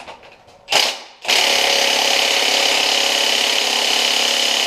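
Milwaukee Fuel cordless impact wrench hammering on a tight crankshaft pulley bolt: a short burst, then a long continuous run of rapid hammering that stops suddenly. The bolt does not break loose.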